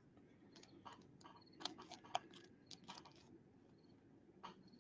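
Faint, scattered clicks and light rustles of trading cards and plastic card holders being handled, about half a dozen small clicks over a few seconds.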